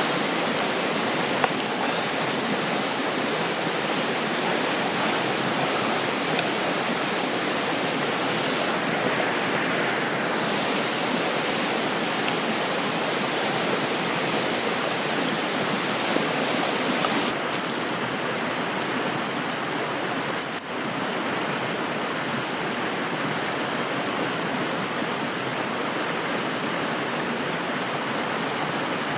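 Steady rushing of a river, with a few faint clicks. The brightest part of the hiss drops away suddenly about two-thirds of the way through.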